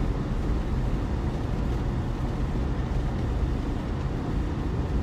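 Steady low rumble of a four-wheel-drive vehicle driving on a snowy road, heard from inside the cabin: engine and tyre noise with no distinct events.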